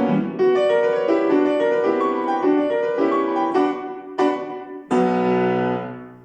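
Piano music: a melody of moving notes, then three separate chords struck near the end, the last one left to ring and fade out.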